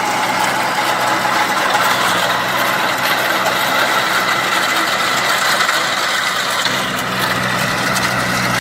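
Kubota mini tractor's diesel engine running steadily.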